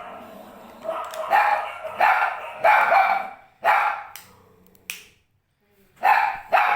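Puppy barking repeatedly in short, sharp barks, several in quick succession. The barking pauses for about a second, then two more barks come near the end.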